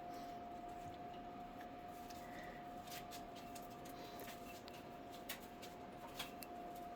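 Quiet room tone with a faint steady high hum and a couple of light clicks near the end.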